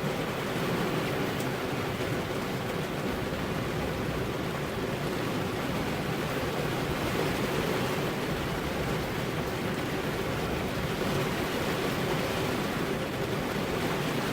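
Steady rain falling on a car's window glass, an even hiss with no thunder.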